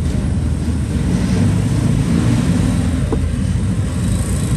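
Steady low rumble of background noise, engine-like, with a short faint squeak about three seconds in.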